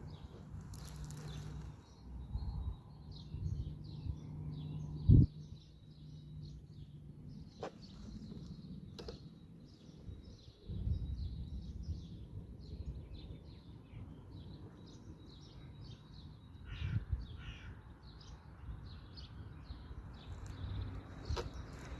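Birds calling and chirping over a low outdoor rumble, with a low steady hum for the first few seconds and a single sharp knock about five seconds in.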